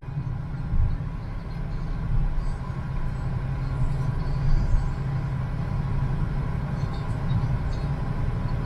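Road vehicle driving, a steady low rumble of engine and tyres with a faint steady hum above it.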